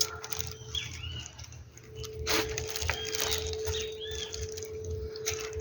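Birds calling in short, arched whistled notes, several times, over a steady faint hum, with a few sharp clicks.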